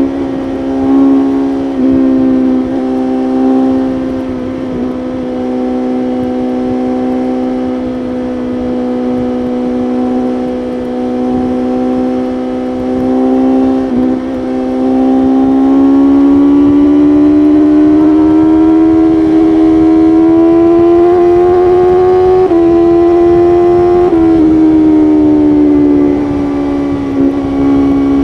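BMW S1000RR's inline-four engine running at steady highway speed, its pitch holding level, then climbing gradually from about halfway through and falling back sharply about three-quarters of the way in.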